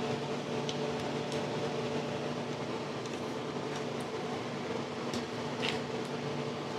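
A steady machine hum, fan-like, holding several level tones. A few faint clicks and a brief scrape come about five and a half seconds in.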